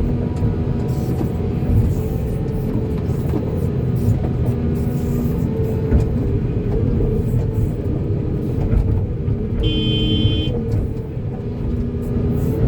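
Volvo excavator's diesel engine running steadily under working load, with a brief high-pitched tone about ten seconds in.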